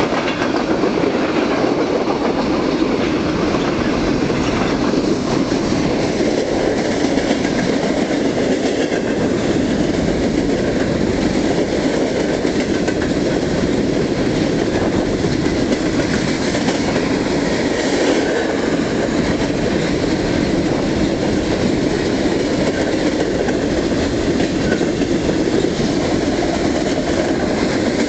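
Railroad cars of a passing train rolling by close at hand: a loud, steady rumble and rattle of wheels on the rails that continues without a break.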